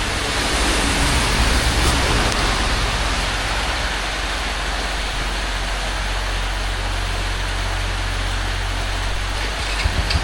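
Steady rain hiss, with a low steady rumble underneath.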